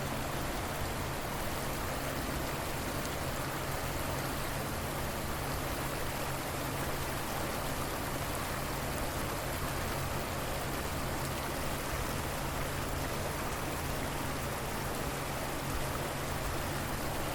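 River water flowing steadily, an even rushing hiss with no change.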